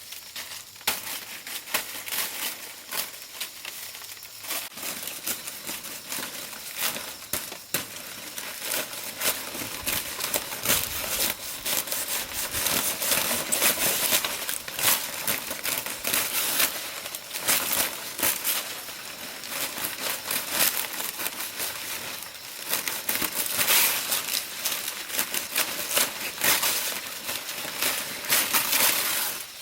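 Dry leaves rustling and crackling as they are handled, in dense, continuous crackles that grow busier about a third of the way in.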